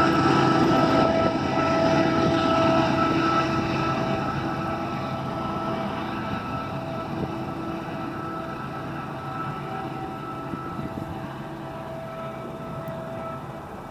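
Canadian Pacific freight train of oil tank cars rolling away, its rumble fading steadily, with a steady ringing tone over it that fades along with it.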